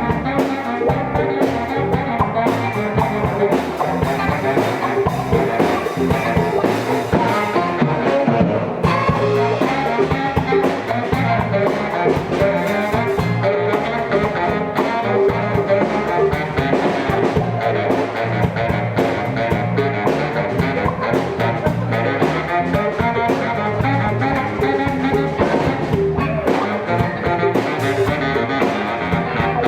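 Live band playing an instrumental jazz-funk number with a steady beat.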